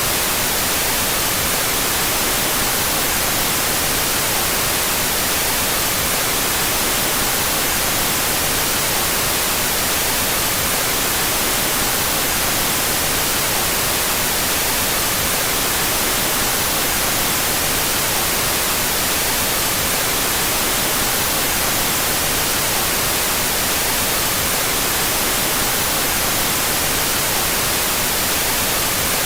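Steady, unbroken white noise, with its left and right stereo channels out of phase.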